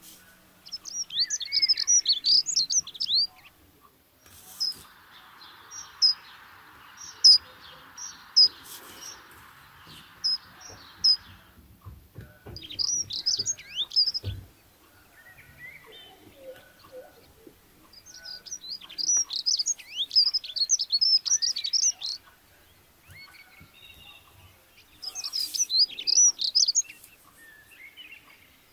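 A songbird singing in four bouts of rapid, high twittering chirps a few seconds each, with single chirps in between.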